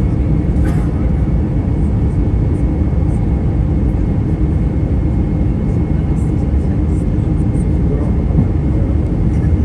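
Steady cabin noise inside an Airbus A320 airliner in flight: engine and airflow rumble, strongest in the low end, with a faint steady high whine.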